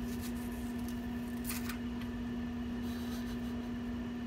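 Kitchen knife slicing a red onion on a plastic cutting board: light cuts, two sharper ones about a second and a half in, over a steady low hum.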